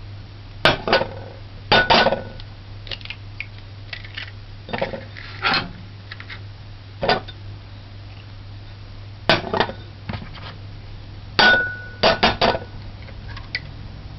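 Eggs being cracked against the rim of a bowl, with dishes clinking: a scattered series of sharp taps and clinks, two of which ring on briefly like struck glass or china.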